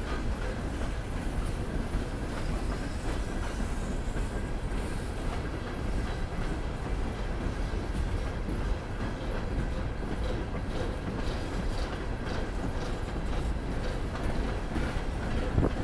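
Norfolk Southern freight train's cars rolling past on the rails, a steady rumble with wheel noise.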